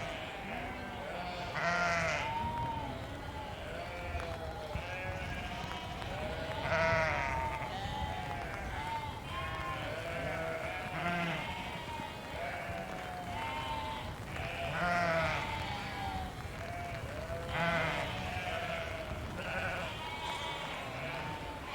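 A flock of sheep bleating, many calls overlapping without a break. Now and then a louder bleat stands out above the rest.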